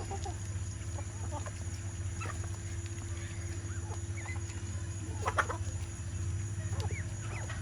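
Chickens clucking, with scattered short calls and one louder call a little past the middle, over a steady low hum.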